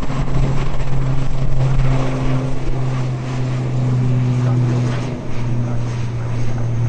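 Aircraft propeller engine running with a steady low drone over a hiss.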